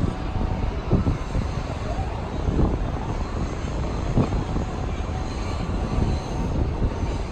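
A KRL commuter train running: a steady low rumble with heavy clunks every second or so.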